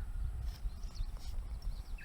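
Irregular low rumble, like wind buffeting the microphone outdoors, with a few light clicks and faint bird chirps.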